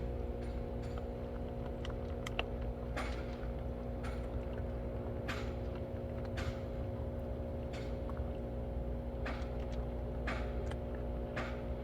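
Cats crunching dry food: irregular short crunches and clicks over a steady low hum.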